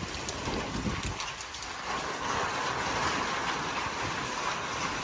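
Strong thunderstorm wind gusting, buffeting the microphone with a low rumble for the first couple of seconds, then a steadier hissing rush.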